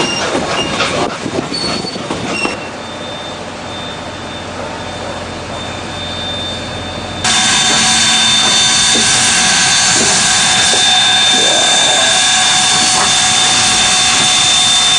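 Excursion train running, with clanking and knocking and high wheel squeals. About seven seconds in the sound jumps abruptly to a much louder, steady rushing noise with a high, steady squeal.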